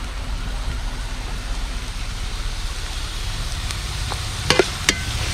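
Chopped onion, ginger and green chillies sizzling steadily in hot coconut oil in a pan while being sautéed, with two sharp knocks of the spoon against the pan about four and a half seconds in.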